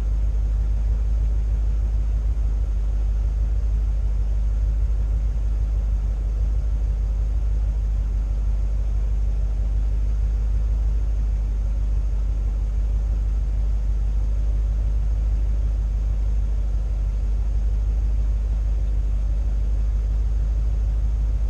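An old pickup truck's engine running with a steady low rumble.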